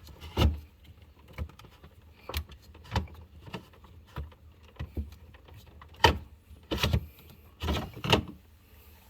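Irregular plastic clicks and knocks from handling a refrigerator water filter and its housing, the loudest about half a second in and a cluster between about six and eight seconds.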